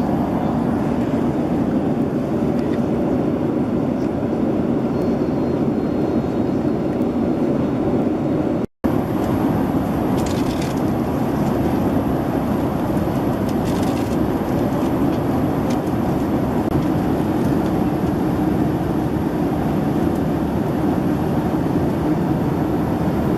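Steady cabin noise of a Boeing 767-300ER in flight, an even rush of airflow and engine noise heard from an economy seat. The sound drops out for an instant about nine seconds in, then carries on unchanged.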